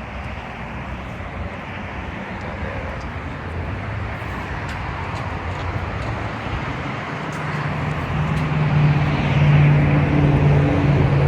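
Dodge Charger SRT8's 392 HEMI V8 running with road and tyre noise; a steady low engine drone comes in about eight seconds in and grows louder.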